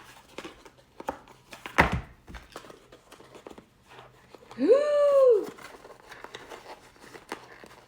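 Packaging of an earbuds box being handled and opened: crinkling and tearing with scattered small clicks, and one sharp knock about two seconds in.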